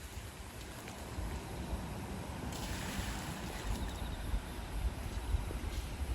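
Wind buffeting the microphone: an uneven low rumble with a brief hissy gust about two and a half seconds in.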